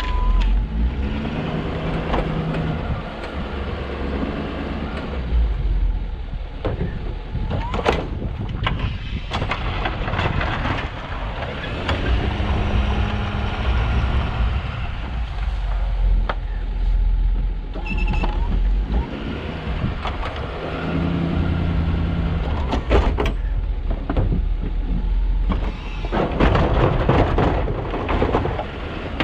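Snowplow truck's engine running, its pitch rising and falling with the throttle over a steady low rumble. Occasional sharp knocks and bangs come through.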